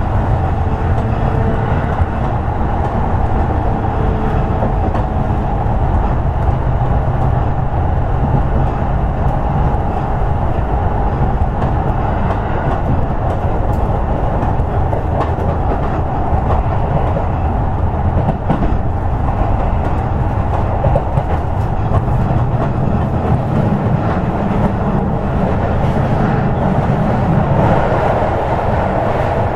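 Toei 10-300 series commuter train running at speed, heard from inside the car: a steady rumble of wheels on rail, with a few faint clicks from rail joints.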